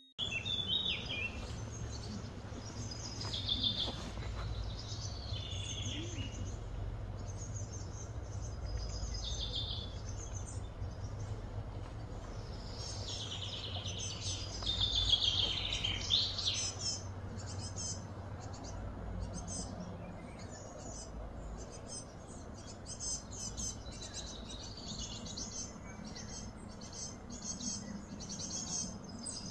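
Birds chirping and trilling over a steady low hum, with a louder run of calls about halfway through.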